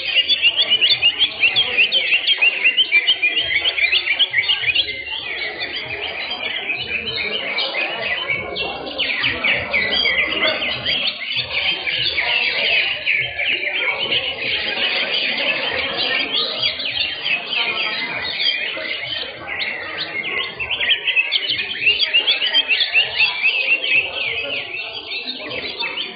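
Many caged songbirds singing at once: a dense, unbroken mass of rapid high chirps and trills, loudest in the first few seconds and again near the end.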